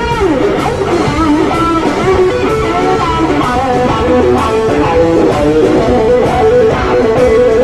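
Live electric blues guitar playing a fast lead solo of quick note runs and bent notes, with a band behind it. The solo opens with a quick slide down in pitch.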